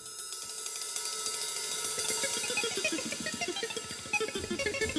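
A live band's song intro: fast, even cymbal taps under a run of short melodic notes, building steadily in loudness.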